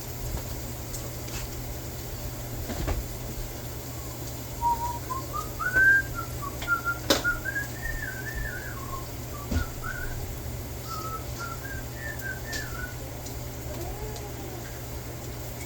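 A person whistling a short, wandering tune, starting about four seconds in and stopping a few seconds before the end, over a steady low hum. Two sharp clicks come in the middle of the tune.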